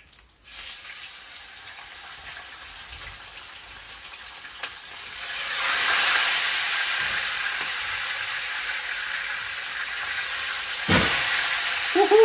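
Pieces of pork belly frying in a pan of hot oil, a steady sizzle that swells about five seconds in as more pieces go into the oil. A sharp knock comes near the end, followed by a short vocal sound.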